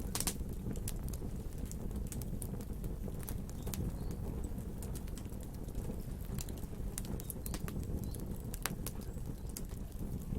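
Wood fire burning, its burning branches crackling with irregular sharp pops over a steady low rumble of flame.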